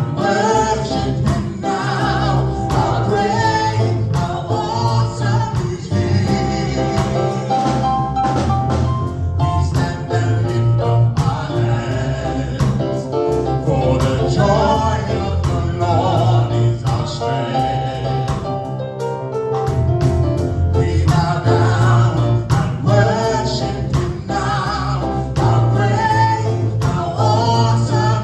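Live gospel praise band with singers performing a worship song: sung melody over bass, keyboard and drums, with tambourine.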